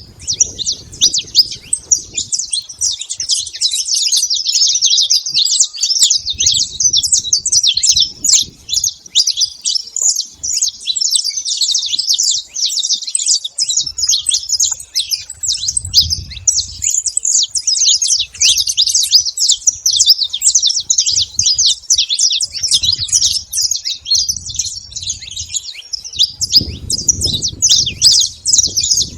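A flock of saffron finches chirping and calling at once, a dense, continuous chatter of many overlapping short high calls. Low rumbles come and go underneath.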